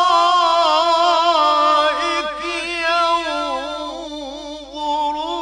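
A man's voice chanting Quranic recitation in long, ornamented melodic phrases, drawing out the word "al-ara'ik" with wavering, held notes.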